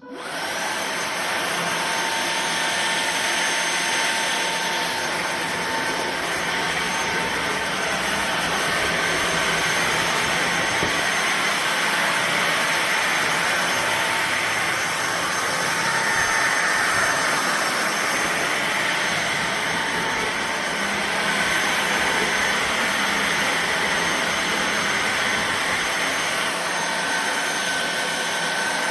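Fieety cordless stick vacuum cleaner switched on and running steadily at full level, an even rushing sound with a faint whine.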